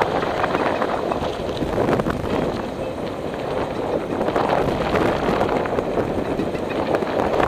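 Wind buffeting the microphone: a steady, loud rushing and crackling noise with gusts.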